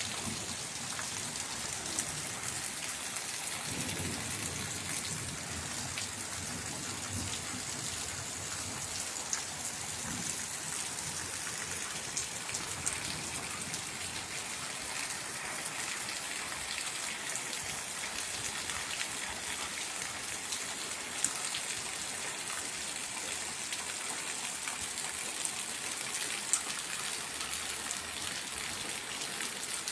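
Steady rain falling, a continuous hiss with scattered louder drop hits.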